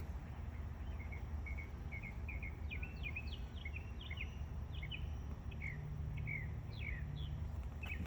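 A bird singing a run of short chirps and quick downward-sliding notes, over a steady low rumble of outdoor background noise.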